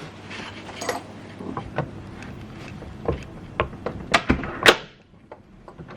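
Hotel room door being shut and its latch and handle worked: a quick run of sharp clicks and knocks a little past the middle, the loudest at the end of the run, checking that the door is locked.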